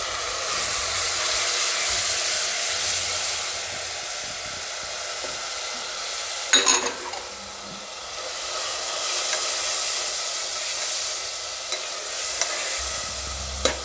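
Grated tomato frying in hot oil and spices in a pressure cooker pot, sizzling steadily as a spatula stirs it. The hiss swells and eases twice, and there is one brief knock about six and a half seconds in.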